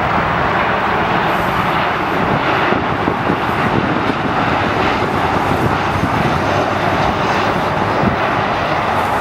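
Jet airliner engines, a steady loud rushing noise that holds level without rising or fading.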